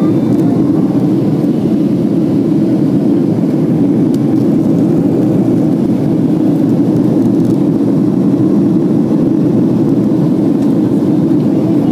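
Airliner climbing out after take-off, heard from inside the cabin: a steady, even rumble of the engines and rushing air.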